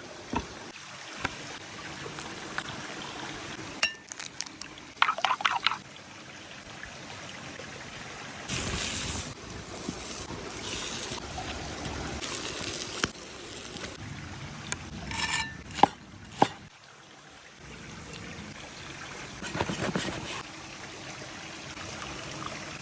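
Liquid being poured and trickling over a steady watery hiss, with quick clinks and knocks of utensils or containers now and then.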